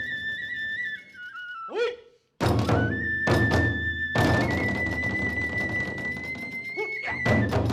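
Hiroshima kagura music: a bamboo transverse flute holds a high, steady melody over heavy drum strikes and ringing small hand cymbals. The music cuts out for a moment about two seconds in, then comes back with a run of loud drum beats under the flute.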